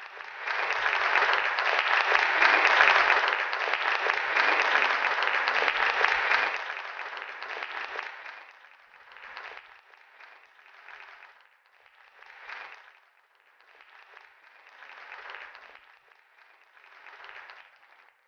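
Audience applause, dense and loud for the first several seconds, then dying away into scattered bursts of clapping.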